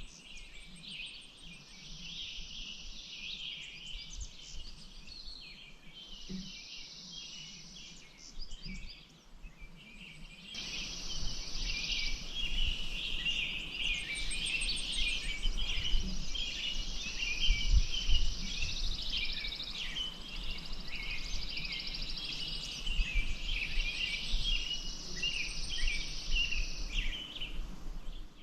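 Many small birds chirping and singing over one another, with a high steady buzz that stops and starts every few seconds and a low rumble underneath. The background gets louder about ten seconds in.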